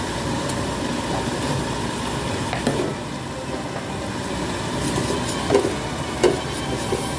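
Food sizzling in a frying pan as it cooks, with a few knocks of a utensil against the pan during stirring.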